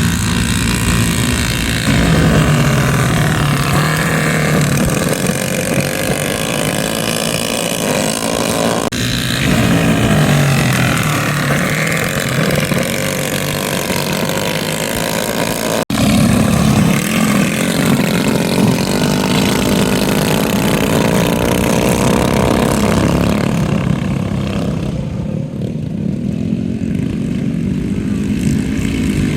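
Mini bike engines racing, the pitch rising and falling as the bikes rev up and ease off, with a sudden brief break in the sound about sixteen seconds in.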